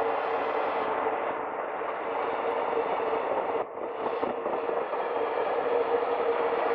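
Container freight train behind an EF210 electric locomotive running past, a steady rolling noise of steel wheels on the rails with a constant tone underneath. The noise dips briefly about halfway through.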